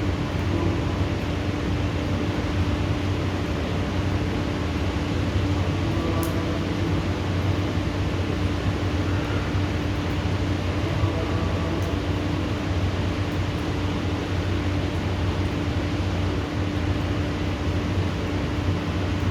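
Steady rain hiss with a low, steady mechanical hum underneath; no thunder.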